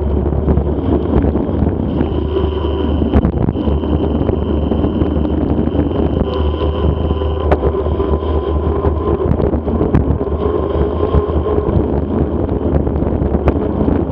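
Mountain bike riding over rough ground, picked up by a bike- or helmet-mounted action camera: continuous wind and rolling noise with scattered knocks and rattles.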